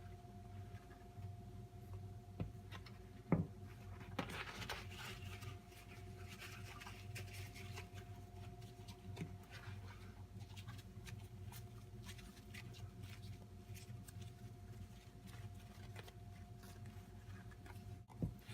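Light scratching and small clicks from handling a small object, with one sharp click about three seconds in and a scratchy patch a few seconds long just after it, over a steady low electrical hum.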